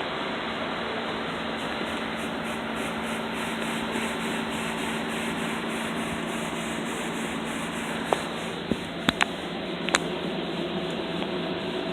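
PDQ ProTouch tandem car wash cycling over a car: a steady spraying and scrubbing noise with a low hum that stops about two-thirds of the way through, followed by a few sharp knocks.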